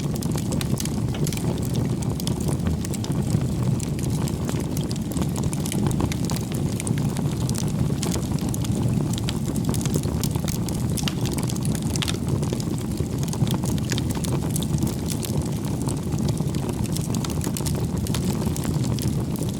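Wood campfire burning: a steady low rush of flames with frequent sharp crackles and pops from the burning firewood.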